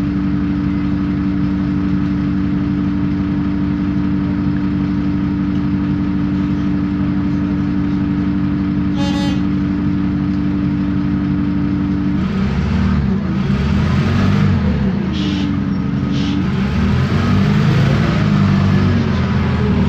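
City bus's MAN D0836 six-cylinder diesel idling steadily, with a brief electronic beep about 9 s in. About 12 s in the bus pulls away: the engine speeds up under load, there are a couple of short hisses, and a whine rises in pitch as the bus gathers speed.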